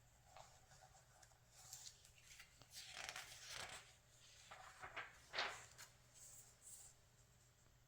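Pages of a glossy magazine being turned by hand: a series of soft paper rustles and swishes, the loudest about three and five and a half seconds in.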